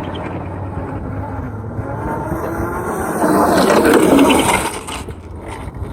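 A small ride-on vehicle rolling along, with wheel rumble and wind on the microphone. The noise swells about three to four seconds in, then drops away.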